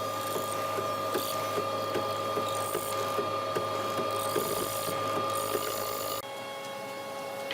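A small motor-driven machine running steadily with a whine, and light regular clicks about two or three times a second; the sound changes abruptly about six seconds in.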